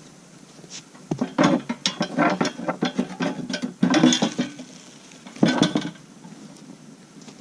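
Cookware and utensils clattering and clinking as they are handled: a long run of rapid knocks and clinks, then a shorter burst about five and a half seconds in.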